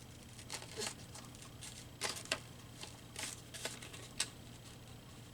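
Scissors snipping through paper in several short, irregular cuts, as an image is cut out by hand.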